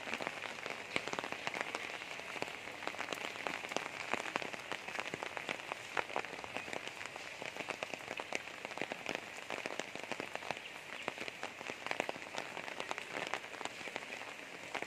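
Steady rain falling, with a continuous hiss and many sharp drop hits close by.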